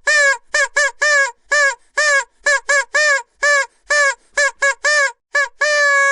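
Plastic vuvuzela horn blown in a rapid string of short, uneven toots, each with a quick bend in pitch at its start, then a long steady blast held near the end.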